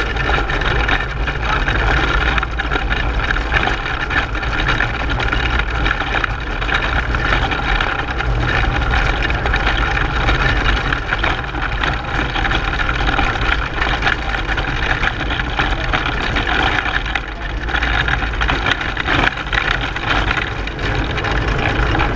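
A racing pedal car heard from on board: steady rolling road rumble and wind on the microphone, with the car's frame and wheels rattling and clicking throughout.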